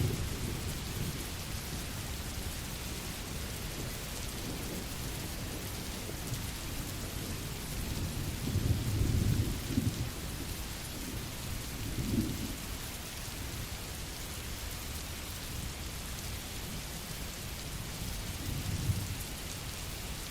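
Steady rain falling, with low rolls of thunder swelling up a little under halfway through, again shortly after, and once more near the end.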